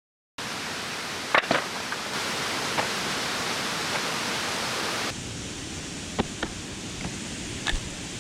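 Steady rushing outdoor noise with scattered sharp clicks, starting abruptly after a moment of silence; about five seconds in it drops to a quieter, duller hiss with a few more clicks.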